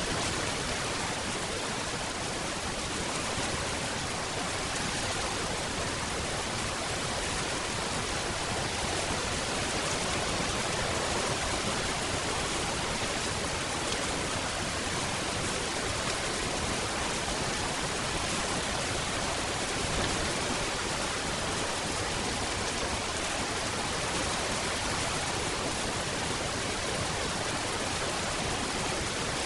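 Steady rainfall: an even, unbroken hiss with no separate drops, thunder or changes standing out.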